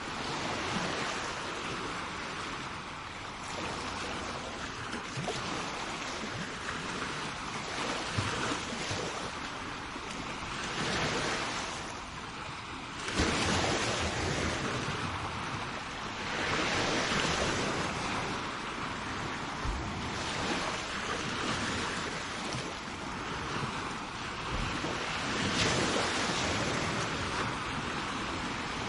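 Sea waves breaking and washing up onto a shore, a continuous rush that swells and ebbs every few seconds, with the strongest surge about halfway through. Some wind on the microphone.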